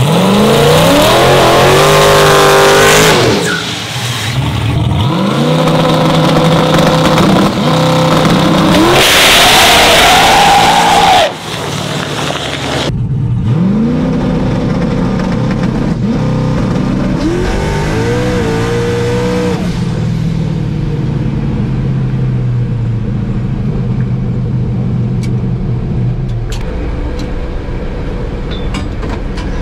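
Twin-turbo LS V8 drag truck accelerating hard, its revs climbing and dropping back at each gear change, three times in the first ten seconds or so, before cutting off suddenly. The engine then climbs through a few more shifts and settles into a steadier, quieter run.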